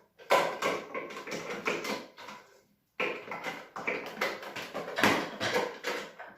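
Plastic parts of a bagless vacuum cleaner clicking and knocking as they are handled and fitted together. The clicks come in a quick, uneven run, with a short pause a little before the middle.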